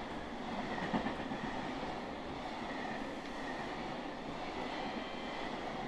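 Long freight train passing on the rails: a steady rumble of wheels on track with a faint high whine and one knock about a second in.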